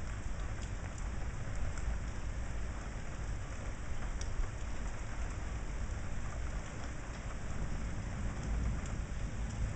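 Steady rain falling during a thunderstorm, with a continuous low rumble beneath it and a few faint drop ticks.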